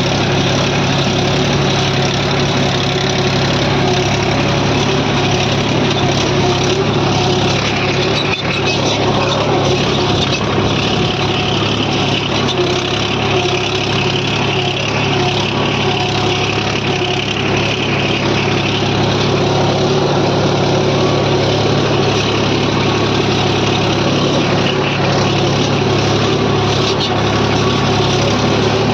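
Mahindra 265 DI tractor's diesel engine running steadily while pulling a cultivator through a field.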